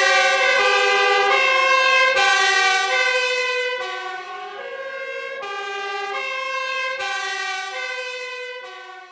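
Emergency vehicle siren sounding, its pitch stepping back and forth between tones about every half second, fading out near the end.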